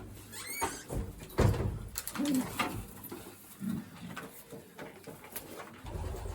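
Racing pigeons cooing, low coos a little past two seconds in and again near four seconds, among sharp knocks and rustles from the birds being handled.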